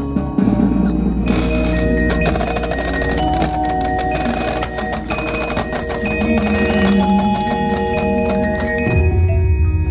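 Percussion ensemble playing, led by a marimba with other mallet instruments ringing bell-like notes. About a second in the texture fills with rapid mallet strikes across many pitches, and a deeper low part comes in near the end.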